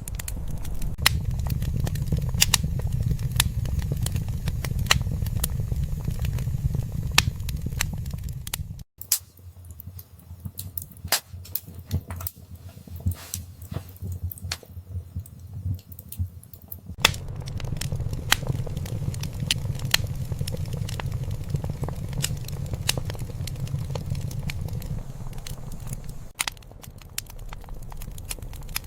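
Wood fire crackling, with frequent sharp pops and snaps over a low rumble. The rumble cuts out abruptly about nine seconds in, leaving only the crackles, and comes back just as abruptly after about eight seconds.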